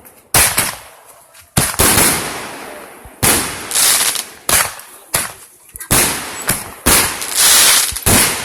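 Fireworks going off in quick succession: about a dozen loud bangs over eight seconds, some close together, each fading away over a moment.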